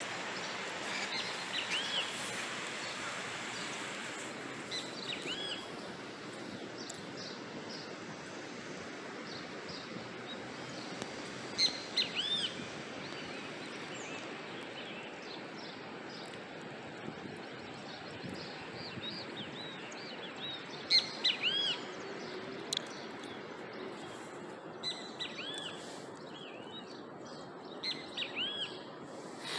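Small birds chirping in several short bouts of quick, arching calls over a steady outdoor hiss.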